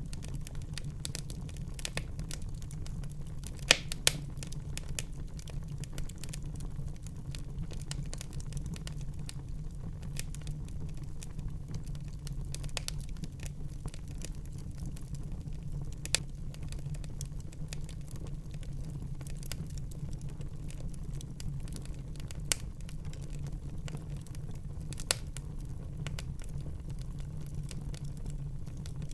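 Wood fire burning in a fireplace: a steady low rumble of the flames with irregular crackles and a few sharper pops, the loudest about four seconds in.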